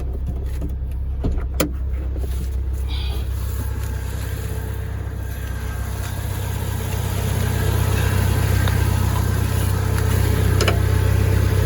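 1999 Jeep Wrangler TJ's engine running steadily in reverse as the Jeep is eased backwards, growing louder about seven seconds in. There are a couple of light clicks in the first two seconds and another near the end.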